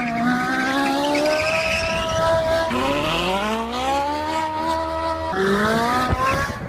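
Car engine accelerating hard, its pitch climbing steadily, dropping suddenly twice (about two and a half and five seconds in) and climbing again: upshifts through the gears.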